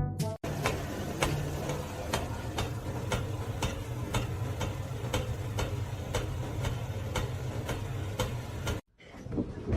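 Regular ticking, a little over two ticks a second, over a steady low hum, cutting off suddenly near the end.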